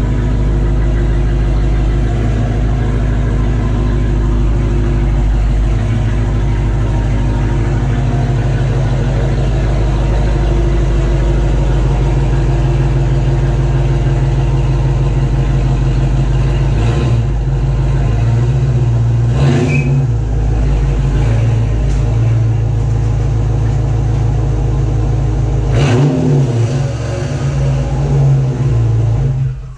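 A car engine running loud and steady, with a few brief blips in revs after the middle; it cuts off abruptly at the end.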